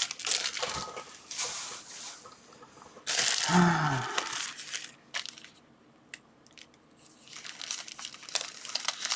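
Small plastic packaging bags crinkling and rustling as they are handled and opened. The rustling is loudest about three to four seconds in and goes nearly quiet for a couple of seconds about two-thirds of the way through.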